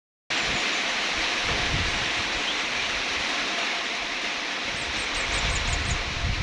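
Steady hiss of falling rain with irregular gusts of wind rumbling underneath, starting abruptly just after the beginning.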